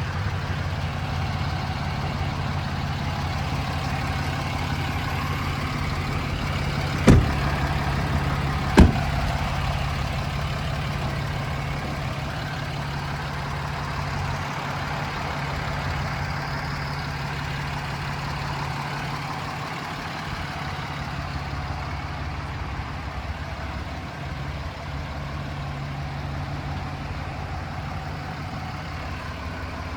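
Ram 2500's 6.7-litre Cummins turbo-diesel inline-six idling steadily, with two sharp knocks about seven and nine seconds in.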